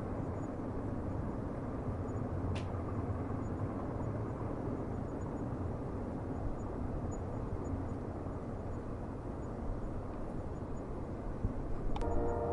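Steady low rumble of a distant train at night, with one sharp click about a quarter of the way in. Right at the end, a ringing chord of several steady tones begins.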